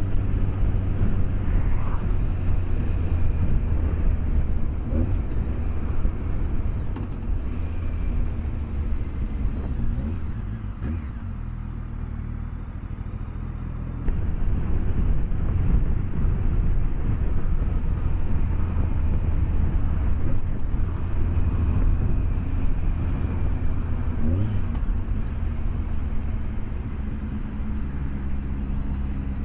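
BMW K1200S inline-four engine and wind rush heard through a microphone inside the rider's helmet while riding. The sound eases off for a few seconds around the middle, then comes back up suddenly.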